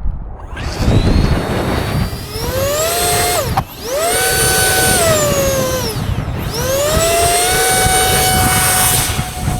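E-flite Habu SS 50mm electric ducted fan spooling up to a high whine and back down three times. The first run cuts off sharply around three and a half seconds in, and the last holds until near the end. Strong gusty wind buffets the microphone throughout with a low rumble.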